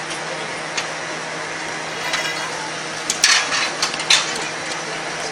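Metal clanks and knocks of jeep parts and tools being fitted by hand during assembly, with a quick run of loud strikes about three to four seconds in, over a steady background hum.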